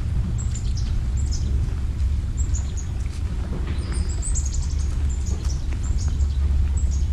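Small birds chirping: many short, high, falling notes in quick irregular series, with one brief held whistle about four seconds in, over a steady low rumble.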